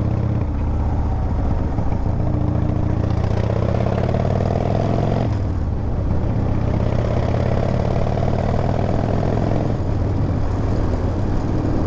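Harley-Davidson V-twin motorcycle engine pulling under acceleration, its pitch rising steadily. The pitch drops sharply at a gear change about five seconds in, climbs again, and drops at another gear change near ten seconds.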